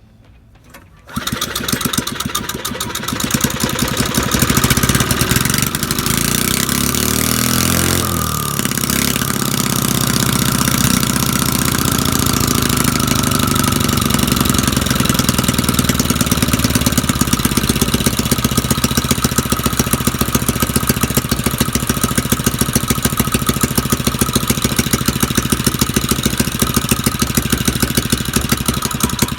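Small single-cylinder pressure washer engine, carburetor removed and running on brake cleaner fed through a hose, starting about a second in and running on. Its speed wavers for a few seconds after the start, then it runs steadily.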